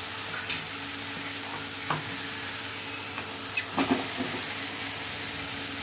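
Masala paste frying in oil in a metal kadhai, a steady sizzle, as steamed chicken pieces are added to the pan and turned, with a few sharp metal knocks of spatula against pan. The paste has been fried until the oil separates, the point at which the chicken goes in.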